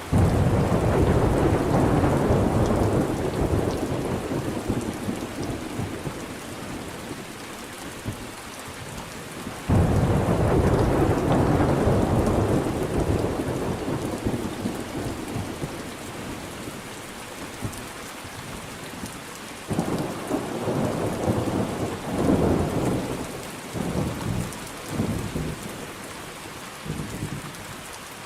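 Thunderstorm: steady rain with three rolls of thunder. The first two break suddenly, at the start and about ten seconds in, and fade over several seconds. The third, about twenty seconds in, comes as a series of cracking rumbles.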